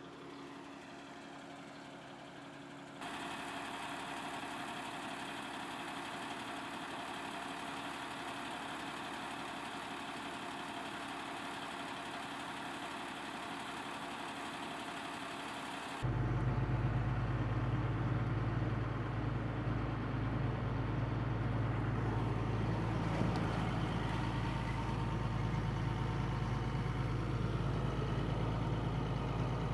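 A motor vehicle engine running steadily. The sound changes abruptly twice, about three seconds in and again about halfway through; the last part is louder and deeper.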